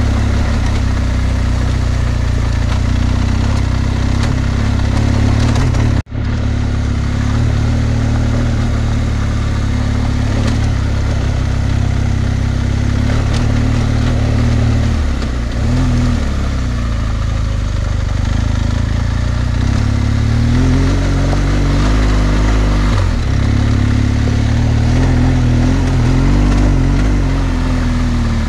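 BMW R1200GS Adventure's boxer twin engine running at low, varying revs on a gravel track, the pitch dipping about halfway through and rising again with the throttle. The sound cuts out for an instant about six seconds in.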